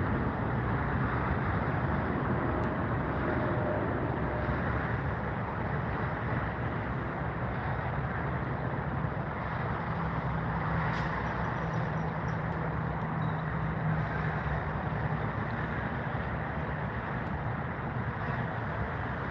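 Steady low rumble of engines and road traffic, with a faint low hum rising slightly in the middle.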